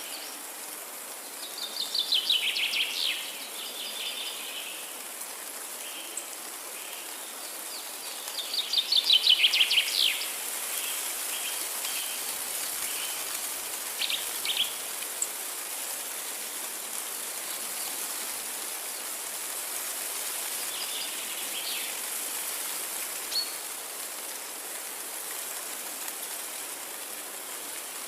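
A songbird singing two loud, fast trilled phrases about six seconds apart, each a quick run of dropping notes, with shorter, fainter calls later. A steady high hiss of forest ambience runs underneath.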